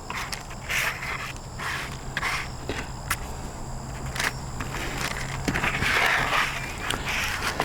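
Body filler being mixed with its hardener: a tool scraping through the paste in repeated strokes, roughly one a second, over a steady low hum.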